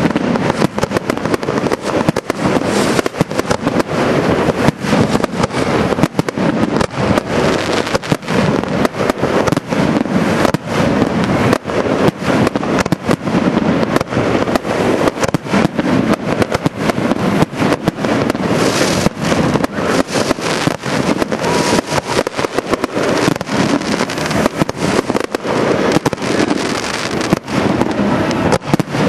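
Aerial fireworks show: shells launching and bursting in a dense, continuous barrage of bangs and crackles with no let-up.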